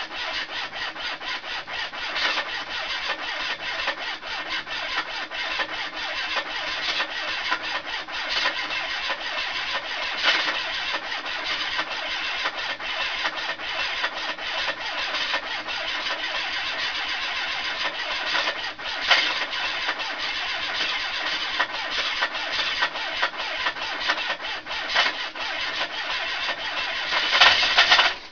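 Ford Capri's 2.0 Pinto four-cylinder engine running with a rapid, steady knock. The engine has just been fitted, and the owner is unsure whether the knock is a bottom-end failure or something else knocking.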